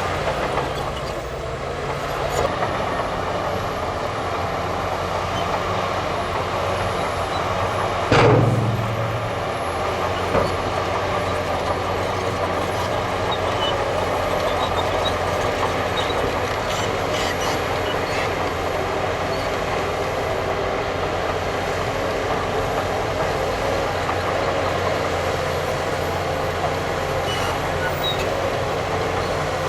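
Heavy diesel earthmoving machinery running steadily, with a loud deep thud about eight seconds in and a smaller knock shortly after.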